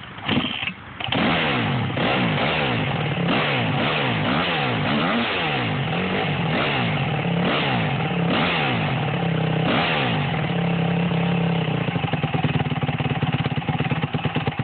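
Honda CRF150R's single-cylinder four-stroke engine with a Two Brothers aftermarket exhaust starting about a second in, then revved up and down repeatedly, roughly once a second. From around ten seconds in it holds steadier, then drops to an uneven, pulsing idle near the end.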